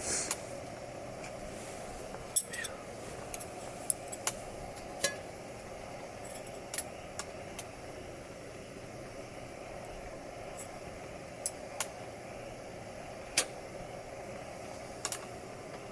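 Wood campfire crackling, with irregular sharp pops and snaps over a steady background hiss.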